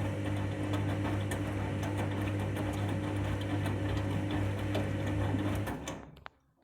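Candy washing machine running on its rinse with a steady low hum, which winds down and stops about six seconds in.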